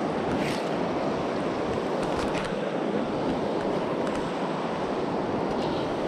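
River water flowing steadily: an even rushing noise, with a few faint clicks.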